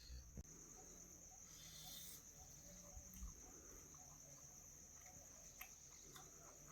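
Near silence, with the faint, steady high-pitched trill of crickets.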